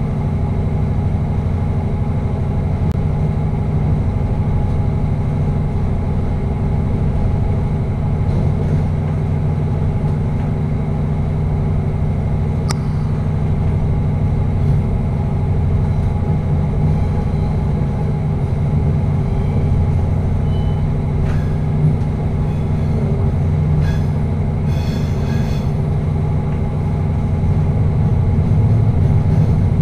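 Passenger train running through a tunnel, heard from the driver's cab: a steady rumble and drone with a few brief clicks partway through, growing a little louder near the end.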